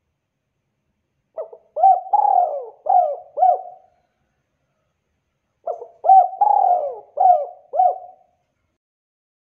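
Spotted dove cooing: two phrases of about five notes each, every note rising and falling in pitch, the second phrase beginning a couple of seconds after the first ends.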